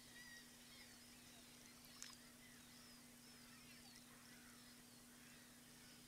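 Faint birds chirping: many short, overlapping, sliding calls over a steady low hum, with a single click about two seconds in.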